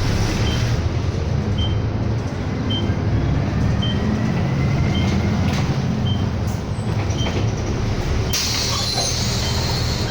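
City bus heard from inside the cabin: a steady low engine hum with road noise, a short high beep repeating about every 0.8 s, and a burst of air hiss starting a little after 8 seconds in.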